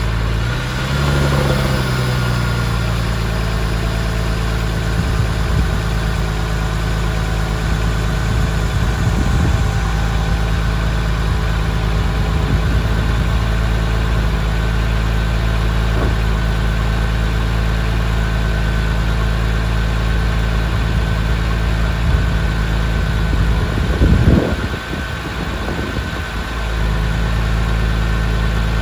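Porsche 996 Carrera's 3.6-litre flat-six idling steadily just after a cold start, settling in pitch about a second in. Near the end there is a brief louder rough patch and then a short drop in level before the idle evens out again.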